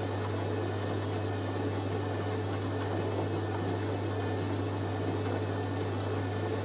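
Hoover A3060 Electronic 1100 front-loading washing machine running mid-programme, a steady low hum with an even whir of noise over it.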